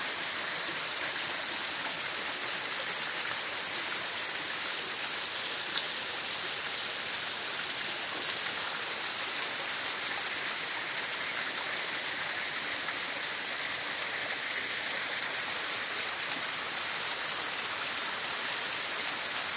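Steady, even rush of falling water from a small mountain waterfall.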